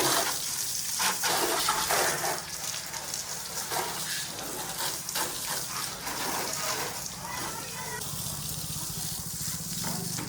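JCB 3DX backhoe loader's diesel engine running steadily at work, with a steady hiss and irregular rushing noise over it.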